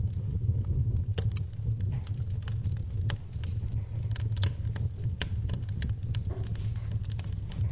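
Wood fire crackling in a fireplace, with irregular sharp pops and snaps over a steady low rumble of the flames, and rain in the background.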